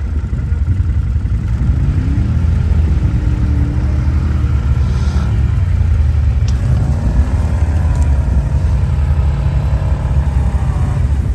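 Quad bike engine running under a steady low drone, revving up with its pitch rising and falling twice, first a couple of seconds in and again in the second half.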